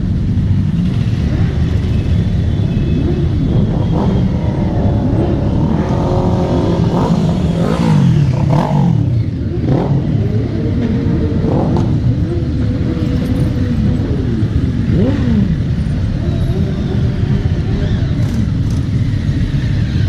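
A group of motorcycles running together, several engines revving with their pitch rising and falling, loudest about eight seconds in.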